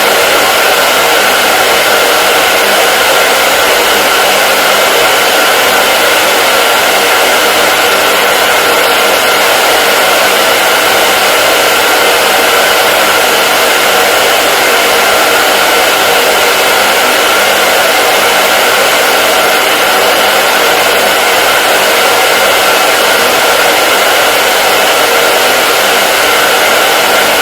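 Hair dryer running continuously: a loud, steady rushing blow of air with a faint constant whine from its fan motor, unchanging throughout.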